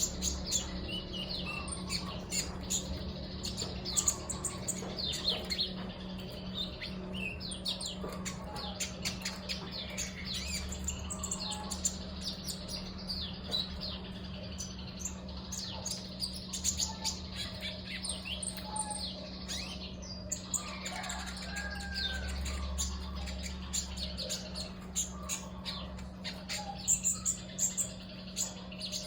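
Male konin (riwikan) songbird chirping actively and repeatedly, many short sharp high calls as it lures other birds, over a steady low hum.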